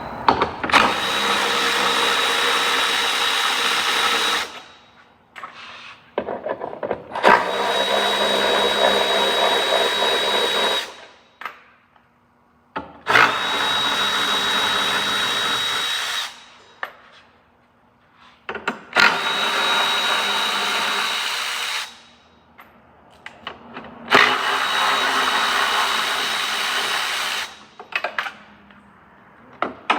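A power tool driving a socket runs in five steady bursts of about three and a half seconds each, with a high whine, as it spins out the 10 mm bolts holding a windshield wiper transmission.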